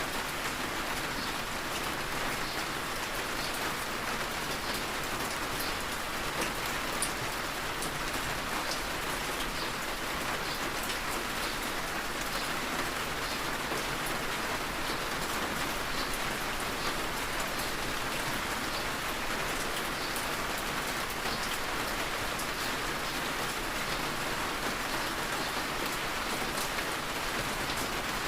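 Heavy rain falling steadily: a dense, even hiss with many scattered sharper ticks of individual drops.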